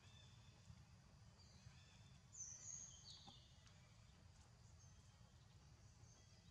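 Near-silent outdoor ambience with faint bird calls and a couple of quick falling whistled notes about two and a half seconds in, over a low steady rumble.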